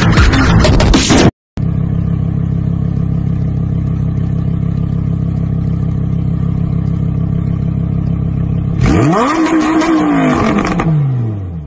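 Car engine idling steadily, then revved hard once about nine seconds in, its pitch climbing quickly and falling back as the revs drop.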